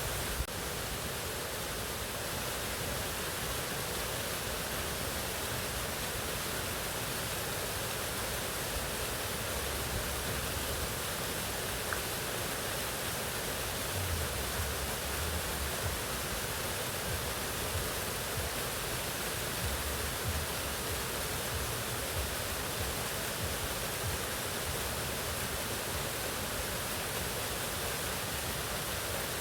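Waterfall: a steady, even rush of falling water with no pauses. A single brief click sounds about half a second in.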